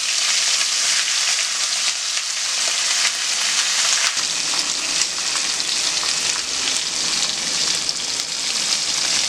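Marinated chicken drumsticks sizzling in hot oil in an iron kadai, a steady hiss with continual small crackles and pops of spattering oil.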